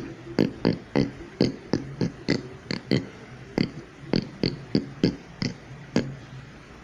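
A person imitating a pig with his voice: a rapid run of short grunting oinks, about three a second, stopping about six seconds in.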